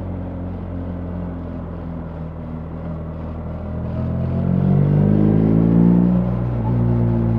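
BMW R 1300 GS's boxer-twin engine under way, running steadily and then accelerating with rising pitch from about halfway; the pitch drops back near the end.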